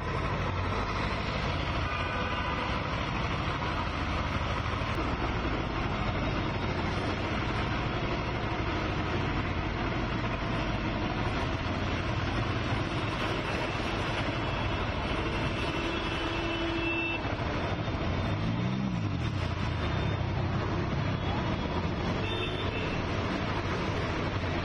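City road traffic: vehicle engines running steadily, with a car horn sounding now and then.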